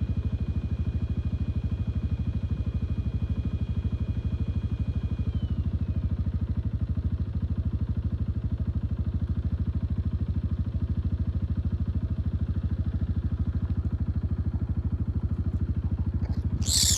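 An engine idling steadily with a fast, even throb. Near the end a small animal lets out a few high squeaks.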